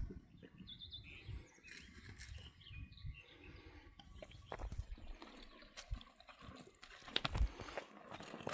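A few short bird chirps about half a second in, among scattered knocks and thuds, with two louder knocks near the end.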